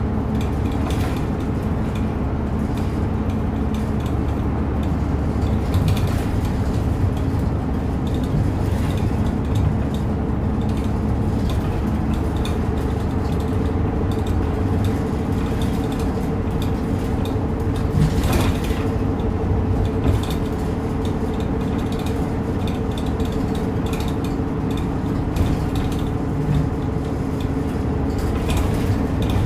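Route bus running, heard from inside the cabin: a steady engine and drivetrain drone with scattered clicks and rattles from the bus's fittings.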